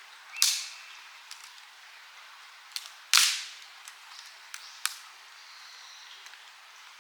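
Campfire crackling: two loud wood pops, each trailing off in a short hiss, with a few smaller sharp snaps between them.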